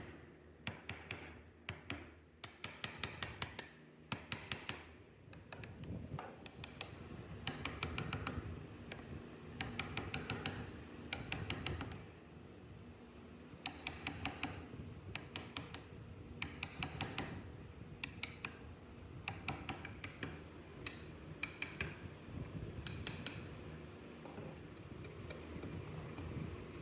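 Wood-carving chisel work: quick bursts of sharp taps with a faint ring, coming every second or two, over a steady low hum.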